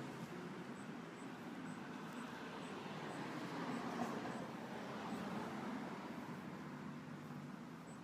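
A vehicle passing on a nearby road: a broad rushing noise that builds to a peak about four seconds in and then slowly fades, with faint high ticks repeating about twice a second.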